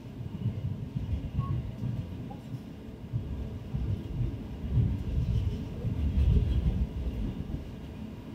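DB Class 628 diesel multiple unit heard from on board: a low, uneven rumble of the underfloor diesel engine and running gear, swelling and easing several times.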